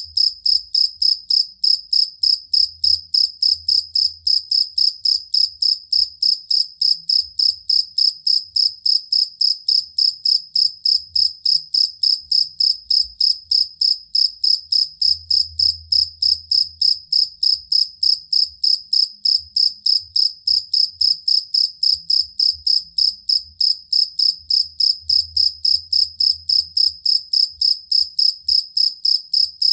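Field cricket (jangkrik kalung) chirping steadily in an even, unbroken rhythm of about three high chirps a second.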